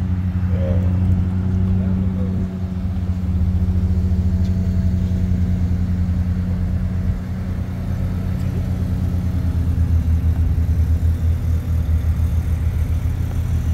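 Lexus LFA's 4.8-litre V10 idling steadily.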